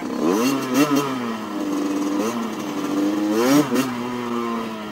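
Motorcycle engine accelerating through the gears. The pitch climbs in the first second and drops at a shift, holds steady, then climbs again and falls back near the four-second mark.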